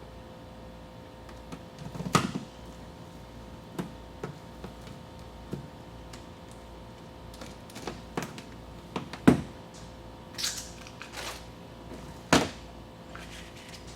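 Scattered clicks, knocks and short rustles as sound-deadening mat is cut and handled against a truck's bare inner door panel. The loudest knocks come about two, nine and twelve seconds in.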